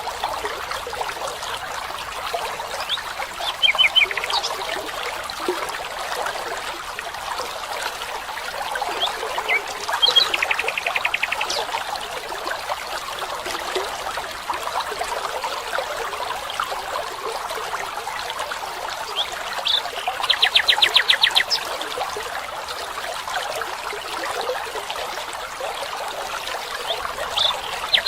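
Running water trickling steadily, with a bird giving a short rapid trill every several seconds; the trills are the loudest sound.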